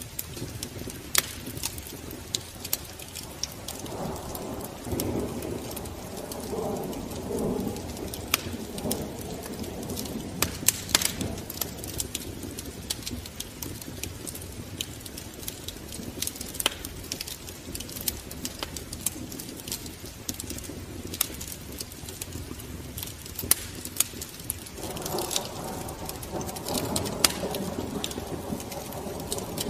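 Wood fire crackling in a fireplace, with sharp irregular pops over a steady low rumble. A lower, wavering sound joins about four seconds in and again near the end.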